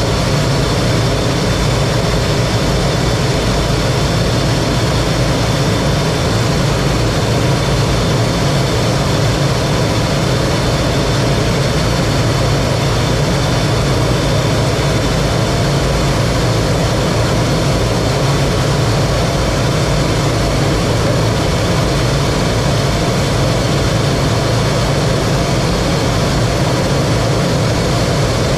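Steady, loud cockpit noise of a T-33 jet trainer: its Allison J33 turbojet running evenly, a deep constant rush with a faint high whine over it.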